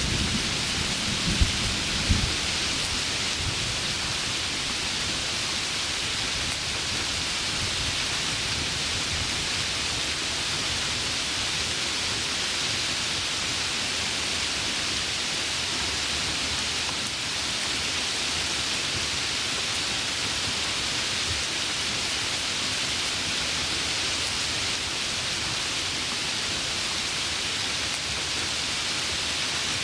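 Heavy rain falling steadily, with a low rumble of thunder and a couple of sharp cracks in the first two seconds or so.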